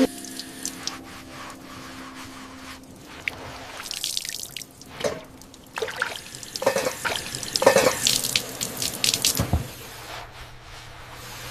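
Water splashing and dripping in a kitchen sink as dishes are washed by hand: irregular splashes and drips, busiest in the second half.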